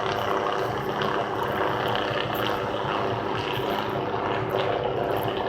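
Helicopter flying overhead: steady rotor and turbine noise with a fluttering low beat.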